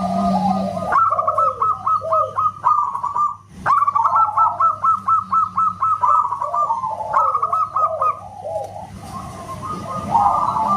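Zebra doves (perkutut) cooing loudly, rapid runs of short whistle-like notes over lower rolling coos, in several overlapping phrases. The song breaks off abruptly about a third of the way in, then resumes.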